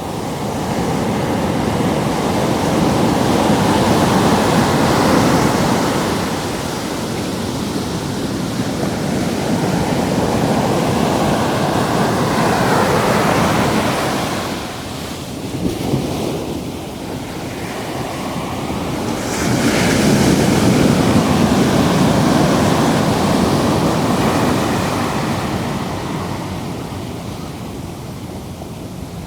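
Ocean surf breaking and washing in, rising and falling in several long surges, with wind on the microphone.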